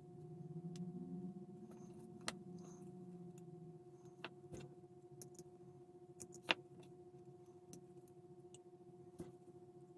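Faint, scattered clicks of small plastic model-kit parts being handled and fitted, over a steady faint electrical hum.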